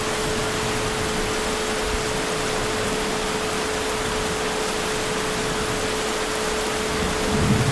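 Steady heavy rain, an even hiss of falling water, with a steady low tone underneath. Near the end comes a brief low rumble of distant thunder.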